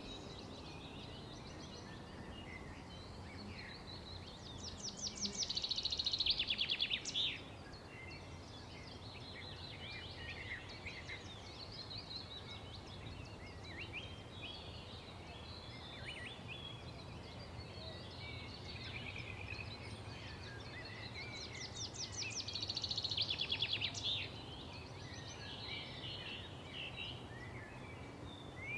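Several songbirds chirping and calling, with a loud, rapid trill about five seconds in and again a little past twenty seconds in, each lasting two to three seconds.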